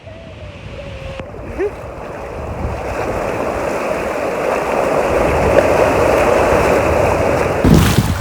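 Ocean surf washing on a beach: a steady rushing that swells louder over several seconds.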